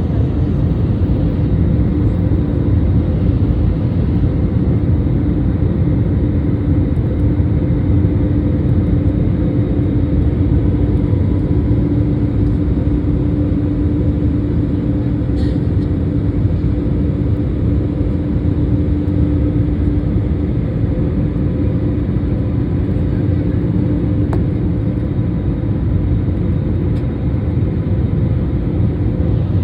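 Jet airliner's engines and airflow running steadily, a loud low rumble with a constant hum.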